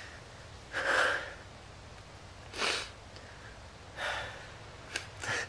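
A man's breaths and sniffs: three noisy breaths about a second and a half apart, the first the loudest, then two short clicks near the end.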